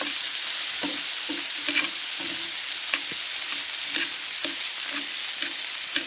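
Chicken wings, peppers and onions sizzling in hot oil in a large black metal pan, with a steady hiss, while a metal spoon stirs them, clinking and scraping against the pan now and then.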